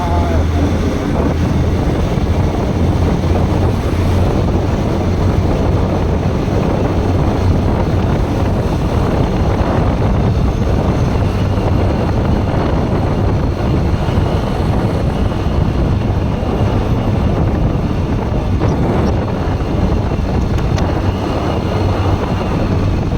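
Bajaj Pulsar NS160's single-cylinder engine running steadily while riding, with a constant low drone under heavy wind noise on the microphone.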